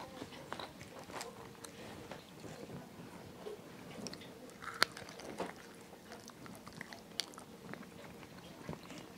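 A person biting into and chewing food, lettuce and fried chicken in a tortilla, heard as small irregular clicks and mouth sounds. One sharp click about five seconds in is the loudest.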